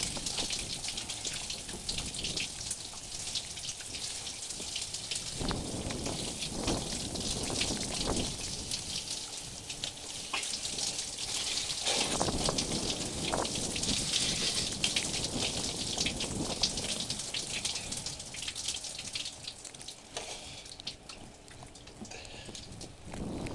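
Steady crackling patter of snow storm precipitation, many small ticks, with a few louder rushing bursts in the middle.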